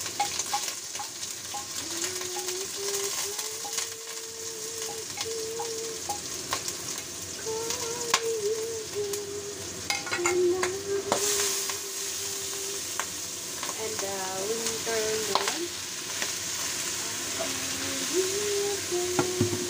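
Garlic and dried scallops frying in oil in a stainless-steel wok, a steady sizzle, with scattered clicks and scrapes of a wooden spatula stirring against the pan.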